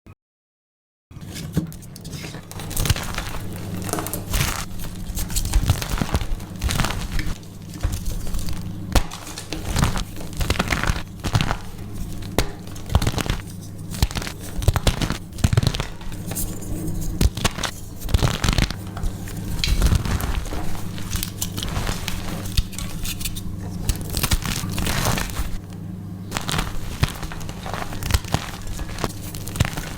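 Gritty purple paste chalk being crunched and crumbled, a dense run of irregular crunches and crackles starting about a second in.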